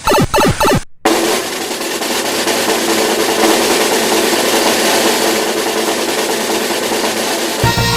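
Snare drum roll sound effect, swelling slowly over several seconds and ending in a low hit near the end, after a few short sharp hits at the start.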